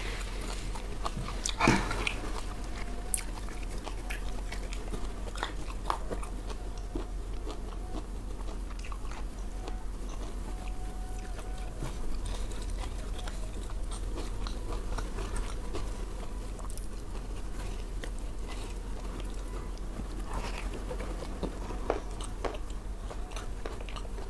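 Close-miked chewing and biting as a person eats by hand, with many small wet mouth clicks and one louder click about two seconds in, over a steady low hum.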